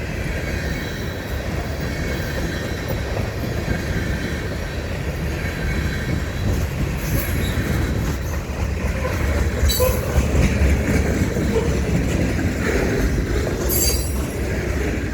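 Freight cars rolling past, their steel wheels rumbling and clattering on the rails with short bits of wheel squeal, as the end of the train goes by.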